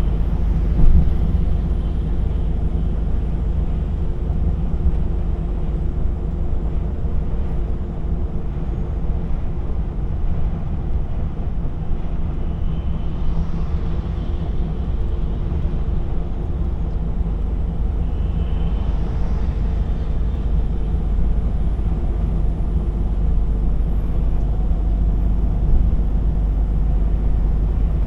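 DAF XF 480 truck under way: the PACCAR MX-13 straight-six diesel running at a steady speed with road and tyre noise, one even drone throughout.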